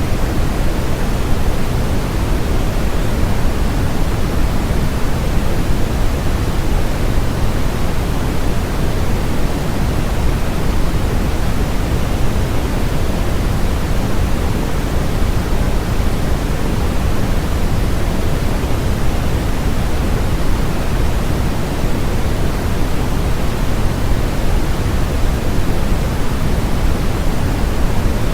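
Steady, unbroken generated noise, heavier in the low end and thinning toward the highs, so closer to pink noise than flat white noise. It stays the same throughout, with no events.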